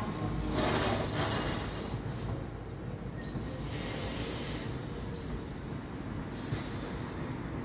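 Loaded MMA box wagons of a stone freight train rolling past on the rails: a steady low rumble from the wheels, with a high hiss from the wheels swelling and fading three times.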